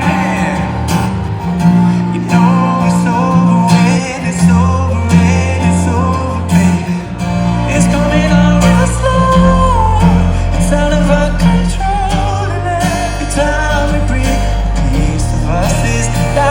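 Live pop song performed by a band: a male singer over guitar and a deep, sustained bass line that changes note every few seconds.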